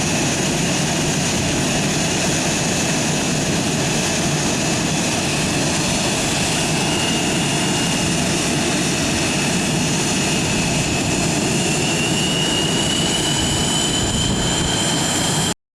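Blue Angels jet aircraft engines running with a steady loud rush and high whine; the whine rises slowly in pitch over the last few seconds.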